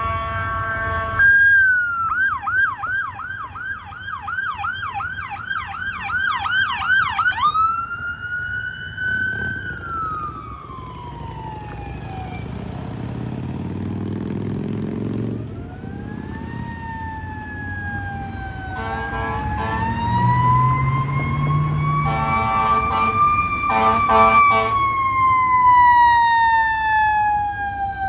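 Fire apparatus responding under emergency warning. An electronic siren runs in a fast yelp for several seconds, then switches to a slow wail that rises and falls, with a diesel engine rumbling underneath. Horn blasts come in about a second in, and again in clusters in the second half.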